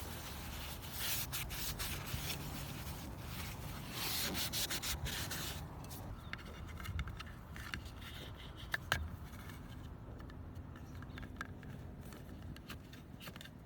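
A cloth wiping and rubbing the van's roof panel, cleaning it with acetone, in quick repeated strokes for the first six seconds or so. After that it goes quieter, with a few light clicks and taps.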